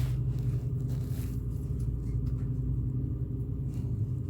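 Ferry's engine running steadily on board, a low even rumble with a deep hum.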